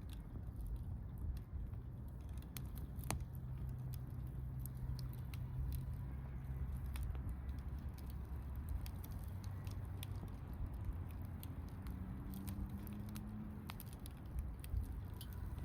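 Wood campfire crackling, with frequent small sharp pops and snaps scattered irregularly over a low steady rumble.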